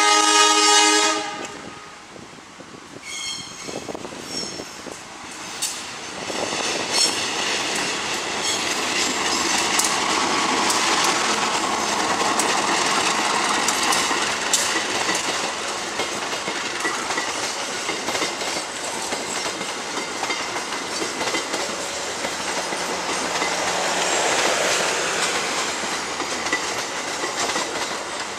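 Diesel locomotive horn sounding a loud blast that cuts off about a second in, then a passenger train running past with a steady rumble and wheels clattering over the rail joints.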